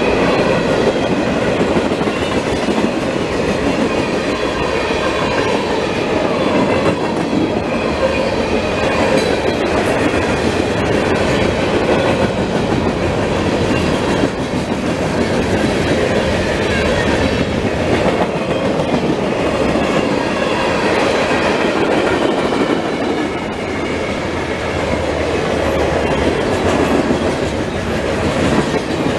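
CSX freight train rolling past, its cars clattering steadily over the rails with a faint high wheel squeal.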